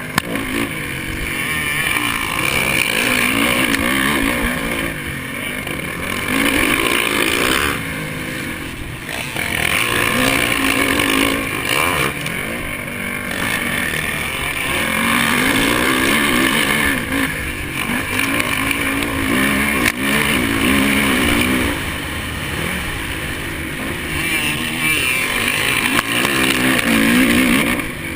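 Honda 450 four-stroke motocross bike's engine revving hard and backing off over and over, its pitch climbing and falling every few seconds as it is ridden around the track.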